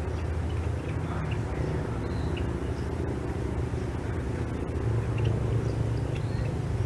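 A steady low rumble with a hum in it, with faint short high chirps scattered over it.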